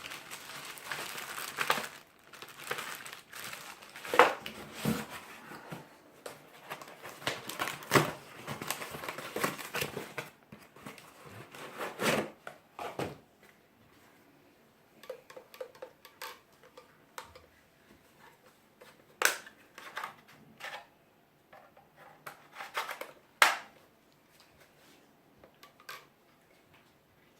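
Packaging being crinkled and crumpled by hand, a dense crackling for about the first ten seconds, then giving way to scattered separate clicks and knocks of things being handled.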